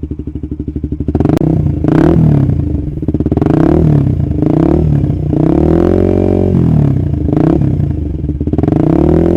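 Suzuki GSX-R150's single-cylinder four-stroke engine breathing through an R9 Mugello aftermarket exhaust on a Proliner header, revving up and dropping back several times while riding. It is heard from inside the helmet with the visor closed.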